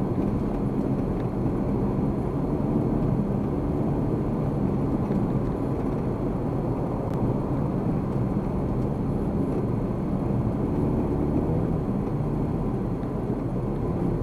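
Steady road and engine noise of a car driving at a constant pace, picked up by a dashcam microphone.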